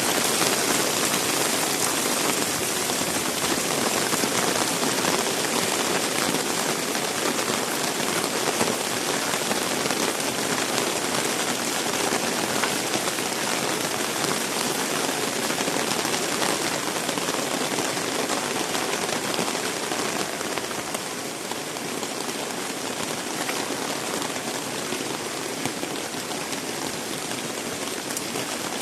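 Heavy rain falling steadily, a dense hiss of drops pattering on surfaces. It eases slightly about two-thirds of the way through.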